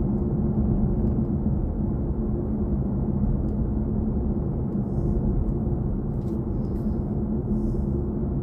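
Steady road and tyre rumble of a BMW i4 M50 electric car cruising, heard from inside the cabin, with a faint even hum underneath.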